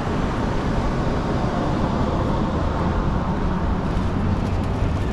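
Steady downtown street traffic noise: a constant low rumble of passing vehicles, with no single event standing out.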